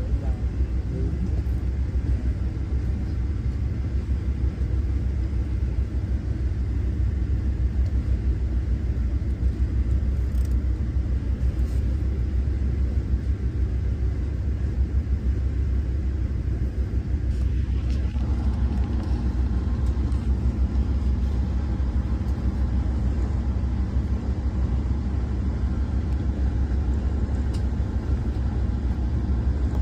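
Steady low rumble and running noise inside a moving Amtrak Carolinian passenger train.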